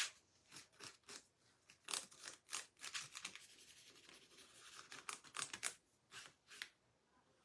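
Faint, irregular scratching and rubbing strokes of a hand tool working over the painted surface of a small picture frame.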